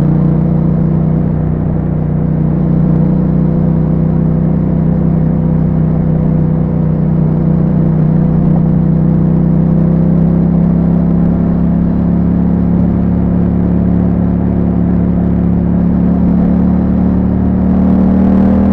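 2021 Yamaha MT-07's parallel-twin engine running through an Akrapovic exhaust with a dB killer fitted, under steady cruising load. The engine note climbs slowly, then rises faster near the end as the revs pick up.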